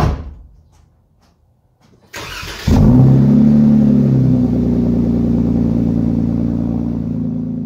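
Car engine starting: a short thud, a brief hiss of cranking, then the engine catches with a short rev and settles into a steady idle that slowly fades.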